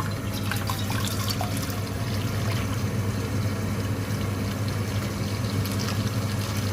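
Water being poured into a cooking pot, a continuous splashing stream, over a steady low hum.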